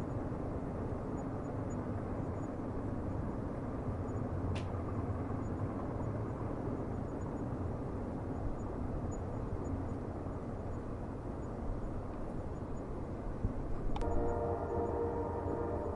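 Steady low rumble of a train running on the rails, with a sharp click about four and a half seconds in and another near the end. Right after that second click a train horn starts sounding, a held chord that carries on to the end.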